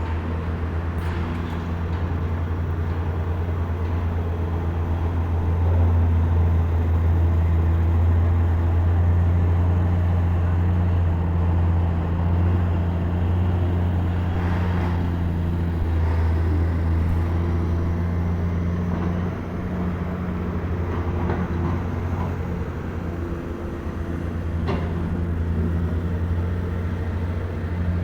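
Heavy diesel engine running steadily, rising a little in level for several seconds in the middle, with a few short knocks over it.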